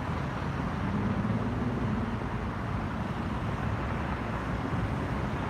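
Steady freeway traffic noise: a continuous wash of passing vehicles with a faint low engine hum.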